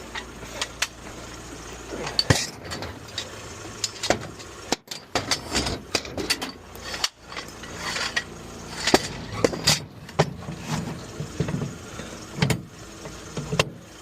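Irregular metal clanks, knocks and rattles of recovery gear being handled around a tow truck, with the truck's engine running low under it for the first couple of seconds.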